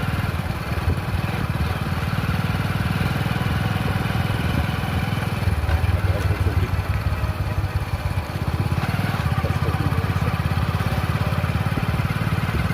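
Motorcycle engine running steadily during a ride, a little louder for a few seconds in the middle.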